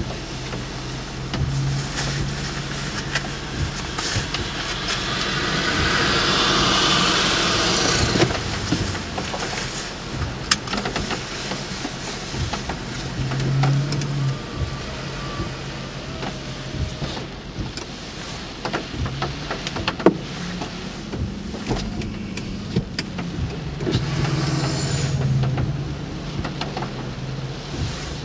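Car cabin sound with the engine idling as a steady low hum and scattered sharp ticks. A rushing noise swells up about five seconds in and cuts off about three seconds later, and a shorter swell comes near the end.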